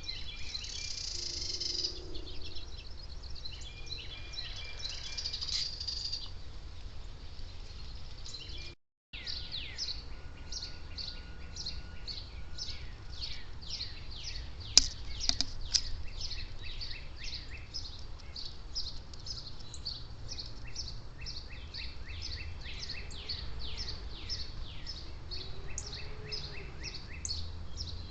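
Wild birds calling: rapid series of short, high chirps that slide downward, repeated several times a second, with a few harsher rasping calls in the first few seconds.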